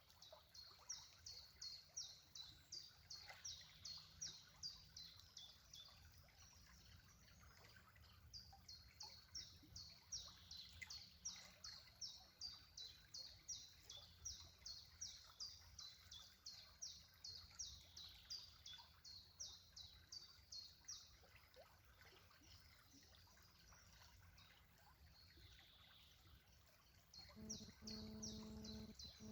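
Faint, high chirps repeated about three times a second in long runs, pausing for a few seconds before starting again near the end. A low steady hum comes in near the end.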